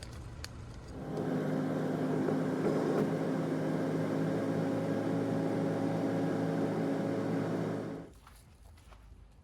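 A steady machine hum with a buzzing drone of fixed tones. It starts about a second in and cuts off sharply near the end.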